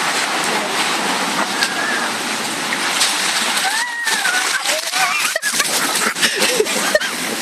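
Storm-surge seawater rushing and splashing over a flooded harbour wharf: a steady wash of water, with sharp splashes coming thick and fast in the second half.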